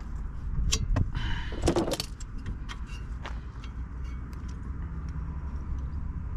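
Metal clicks and clinks of tools and brake parts being handled while a brake caliper is reassembled, with a brief clatter between one and two seconds in, over a steady low rumble.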